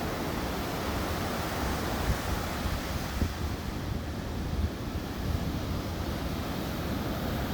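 Sea waves breaking and washing up a beach: a continuous rush of surf with a heavy, rolling low rumble.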